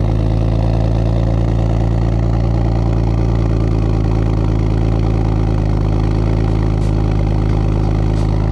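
Single-turbo BMW 135i's straight-six engine running steadily at one unchanging pitch, with no revving.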